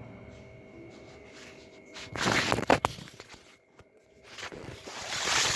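Two bouts of rustling, scraping handling noise with a few sharp clicks, the first about two seconds in and the second near the end, over a faint steady hum.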